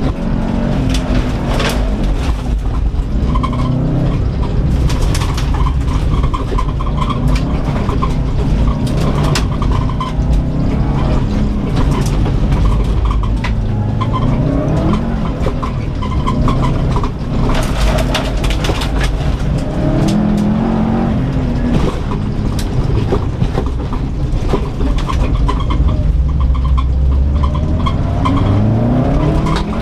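Turbocharged flat-four engine of a 2004 Subaru Impreza WRX STI heard from inside the cabin, driven hard on a dirt rallycross course, revving up and dropping back over and over through gear changes. Sharp clatters and knocks come from the rough dirt surface against the car.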